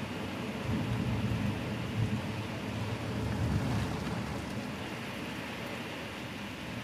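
Sudden heavy downpour heard from inside a house: a steady hiss of rain, with a faint, low rumble of thunder that fades out about four seconds in.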